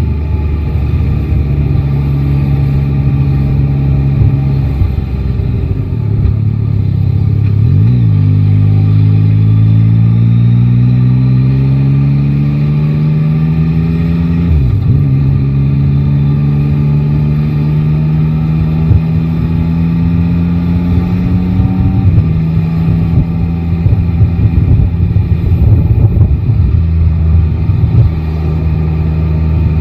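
Yamaha Tracer 9 GT's 890 cc inline-three engine holding a steady low note, then pulling away with the revs climbing twice, each climb broken by a brief dip for a gear change. After about twenty seconds it drops back to a steady low note.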